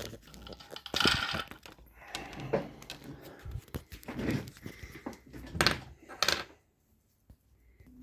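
Handling noises from working on a Pfaff 204 sewing machine: a handful of separate short rustles, clicks and knocks from its parts being moved by hand.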